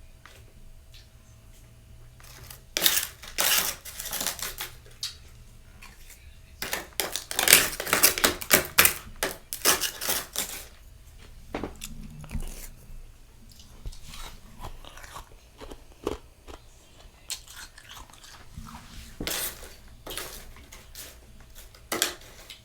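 A mouth biting and chewing soft freezer frost, close up. Crisp crunches come in clusters: a short run a few seconds in, a dense run around the middle, another brief one near the end, with quieter chewing between.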